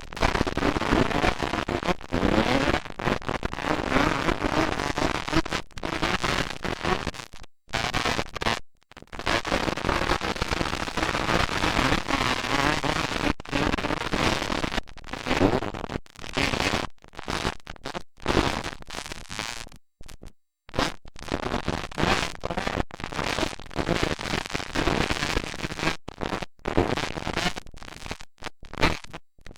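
Motocross dirt bike engines running hard, heard as a harsh, noisy din through the microphone, with several short dropouts where the sound cuts out almost completely.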